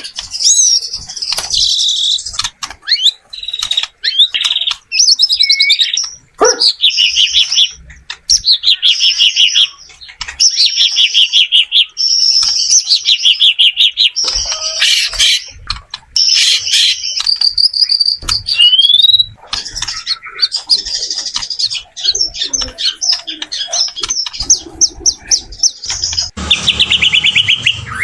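White-rumped shama singing loudly: a continuous run of varied phrases made of fast trills and clear whistles, with short gaps between them and one rising whistle about two-thirds of the way through.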